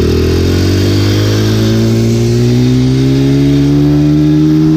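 Dirt bike engine running under steady throttle, its pitch rising slowly and evenly as the bike gains speed.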